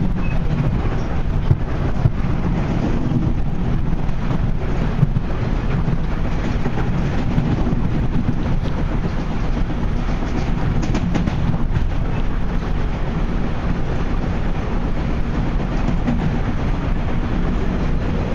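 Steady low rumbling noise without pauses.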